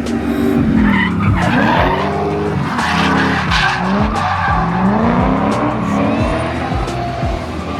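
A car engine revving hard, its pitch climbing and dropping again several times, with tyres skidding and squealing as the car is driven sideways in a drift or burnout.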